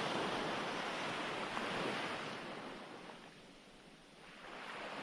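Ocean waves washing on a shore: a swell of surf that fades away about three seconds in, then another building near the end.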